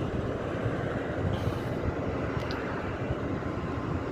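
Steady rumbling noise with no distinct beats, from an aircraft tow tractor moving a Boeing 787-8 Dreamliner close by.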